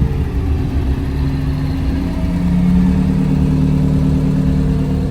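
Car engine running nearby, a steady low rumble with a drone that grows a little louder and higher about two seconds in.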